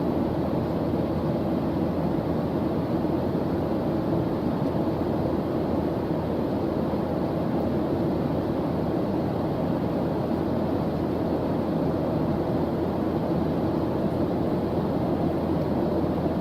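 Steady white-noise track, deep and even, with most of its weight low and little hiss up top; it holds at one level with no changes.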